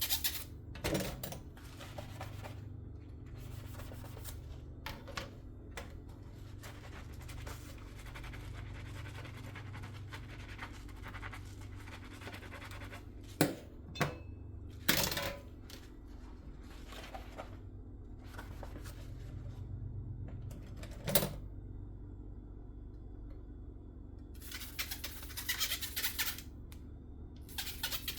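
Dishes being washed by hand at a kitchen sink: scrubbing and rinsing noises with a few sharp clinks of dishware around the middle, over a low steady hum.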